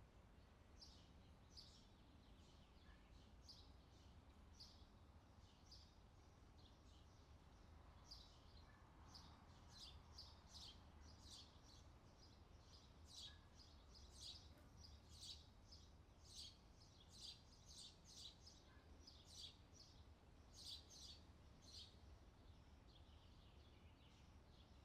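Faint outdoor summer ambience: birds chirping in short, high, irregular calls, sparse at first and busier about a third of the way in, over a low steady background hum.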